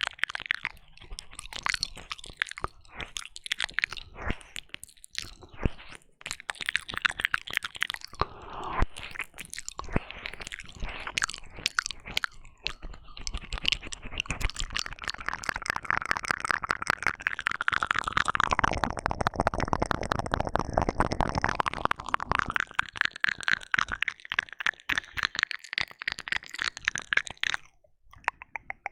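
Close, wet ASMR mouth sounds of ear licking and ear eating on a binaural microphone's ear: dense smacking and clicking that becomes a continuous wet crackle in the second half, with a brief pause near the end.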